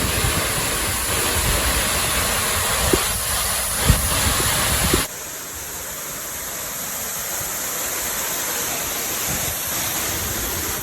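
Steady rushing roar of a waterfall, dropping suddenly to a softer level about five seconds in, with a few low thumps on the microphone before the drop.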